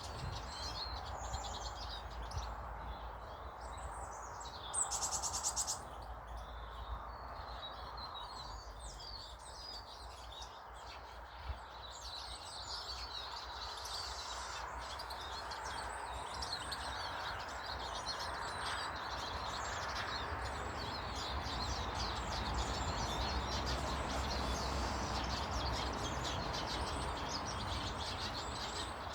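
Many small garden birds chirping and twittering, with a brief high, rapid rattle about five seconds in and a steady low rumble underneath.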